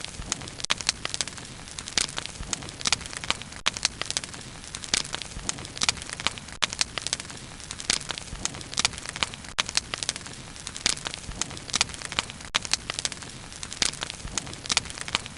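Wood fire crackling steadily, with frequent sharp pops and snaps scattered irregularly over a low, even rush of burning.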